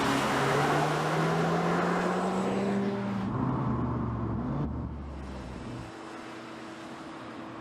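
2020 Audi S3's turbocharged 2.0-litre four-cylinder engine and exhaust under acceleration, its pitch rising steadily for about three seconds, then falling away as the sound fades to a quieter steady drone.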